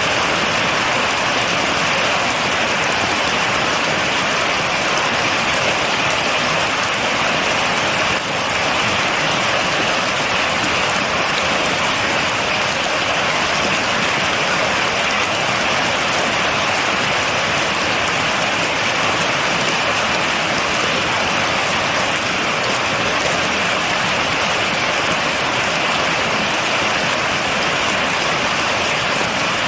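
Steady rain: an even, unbroken hiss of falling drops, with a fine crackle of individual drops hitting a surface.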